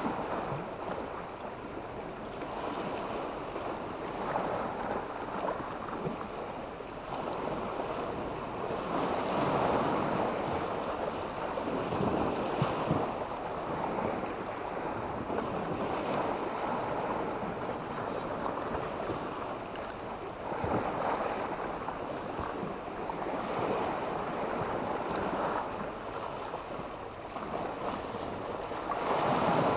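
Sea waves breaking and washing up a beach of sand and black stones, surging in every few seconds. The biggest surge comes about a third of the way in, with short clicks in it.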